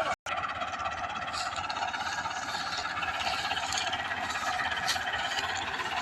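Massey Ferguson 385 tractor's four-cylinder diesel engine running steadily, with a rattling, clattery mechanical noise.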